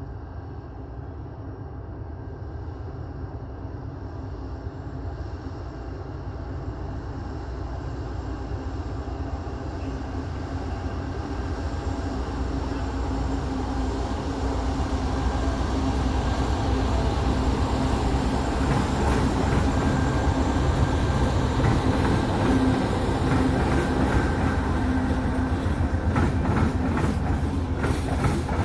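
A diesel train approaching, its engine rumble and wheel noise growing steadily louder over the first half, then passing close by. Near the end the wheels click over the rail joints.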